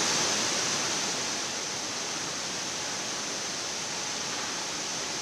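Steady hiss of a Boeing 787 flight deck's background noise during taxi, between radio calls, easing slightly over the first couple of seconds.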